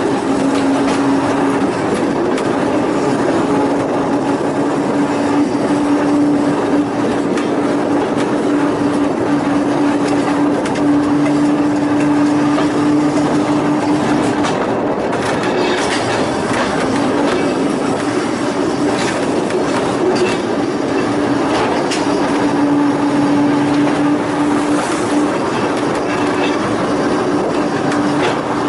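Volk's Electric Railway electric car running along the narrow-gauge track: a steady electric motor hum over the rattle and clatter of wheels on the rails. The hum drops out briefly about halfway through, then returns.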